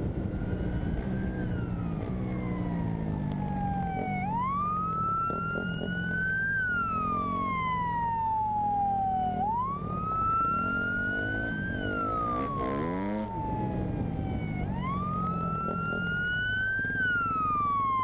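Police siren sounding a slow wail, rising and falling about every five seconds, three times through, with a vehicle engine running underneath.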